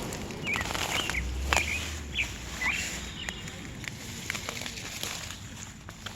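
A bird chirping: a run of about six short chirps in the first three seconds, with scattered clicks and rustles.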